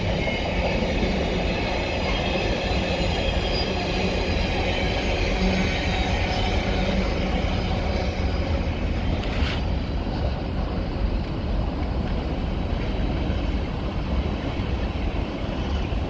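A train running alongside the platform: a steady low rumble with a high whine of several tones over it. About nine and a half seconds in there is a short sharp click, after which the whine fades and the rumble carries on.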